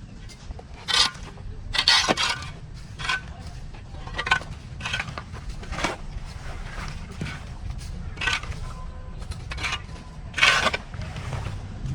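Irregular scraping and crunching as overgrown weeds are cleared by hand, with several sharper bursts, the loudest about two seconds in and near the end, over a steady low rumble.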